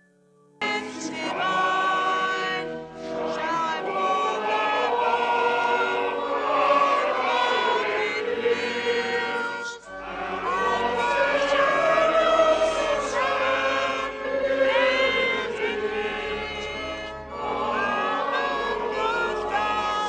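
Choir singing in harmony, starting abruptly about half a second in, with short breaks between phrases.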